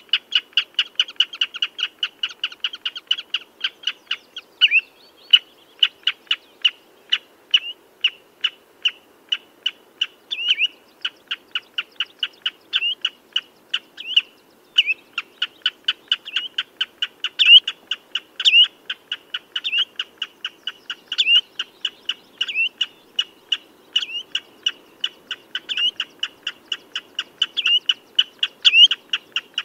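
Common redshank calling: a rapid, unbroken series of short piping notes, about three a second, with louder upward-slurred notes mixed in.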